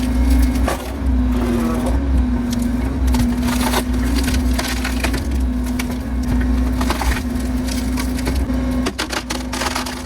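Diesel excavator engine running with a steady, slightly wavering drone while wood cracks and splinters again and again as tree limbs are crushed and broken.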